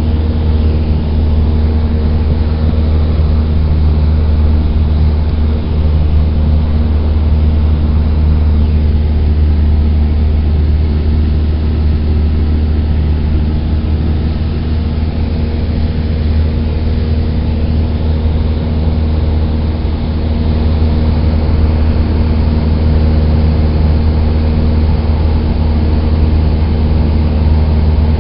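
Cessna 172's four-cylinder piston engine and propeller droning steadily at constant power.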